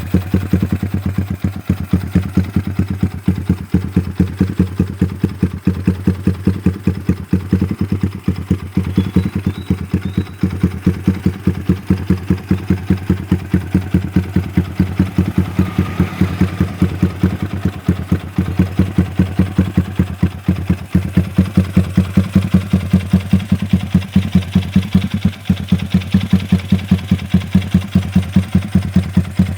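Yamaha Vixion's single-cylinder four-stroke engine, fitted with a carburettor, idling through an aftermarket ProLiner exhaust: a steady, even pulsing exhaust note that gets a little louder in the last third.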